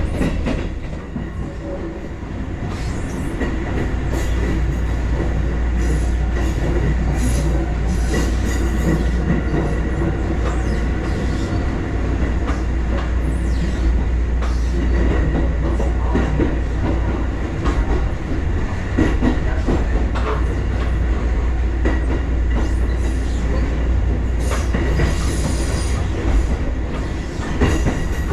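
Kotoden electric train running along the track: a steady low rumble of wheels on rail, with repeated clicks over the rail joints and a thin, faint wheel squeal.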